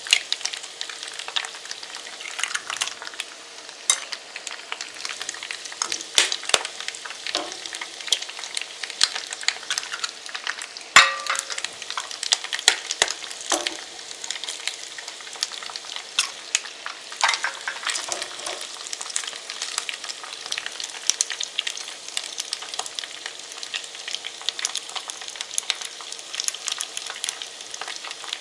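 Pasta, sausage and eggs frying in a pan: steady sizzling with many crackling pops and clicks of a utensil stirring. A sharp knock comes about eleven seconds in.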